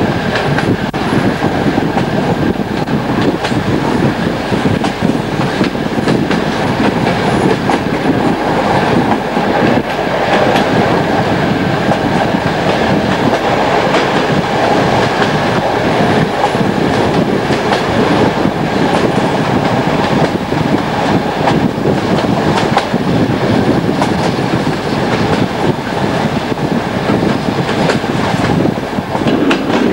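Passenger train running along the line, heard from on board: a steady running noise with the clickety-clack of the wheels over rail joints and a steady high tone running through it. The clacks come more regularly near the end.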